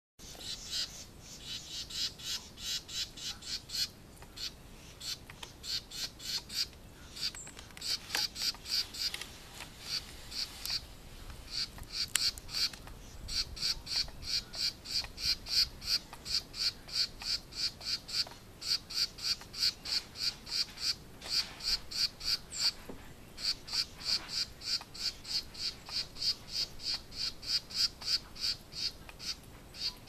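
A small bird calling loudly: one sharp, high note repeated about three to four times a second in long runs, with short pauses between runs.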